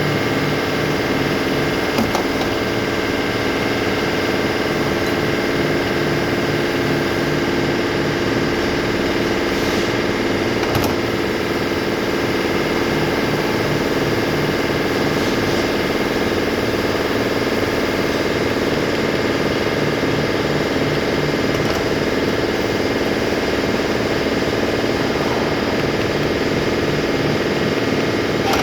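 An engine idling steadily, with a faint even pulse low down and a couple of light clicks.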